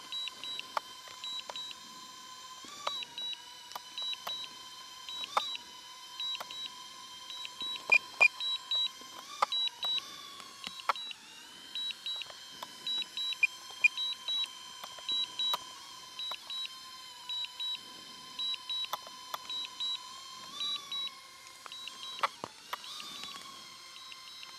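DJI Neo 2 drone's low-battery warning: short high beeps in pairs, repeating about once a second, over a steady whine.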